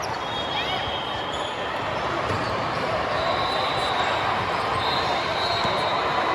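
Busy gymnasium din: steady crowd chatter, with sneakers squeaking on the court floor and balls bouncing.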